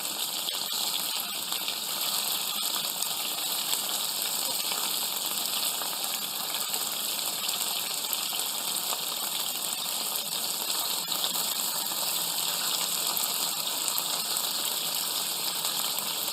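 Chicken pieces frying in hot oil in a pan: a steady sizzling hiss that keeps an even level throughout.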